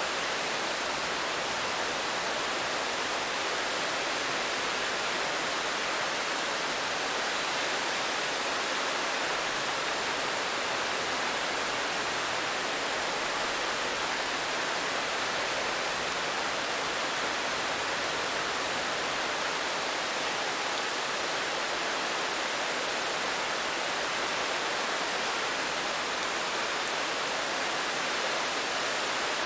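Steady rain, an even hiss with no separate drops standing out and no change in level.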